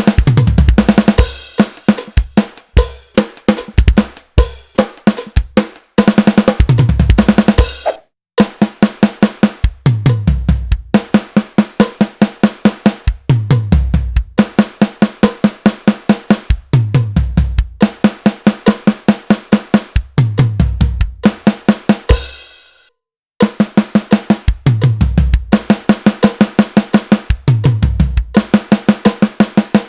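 Drum kit playing an eighth- and sixteenth-note fill over and over: accented snare hits with a flam, a single-stroke tom roll falling in pitch down the toms, and bass drum. The kit stops briefly twice, about eight seconds in and again a little after twenty seconds, then picks up again.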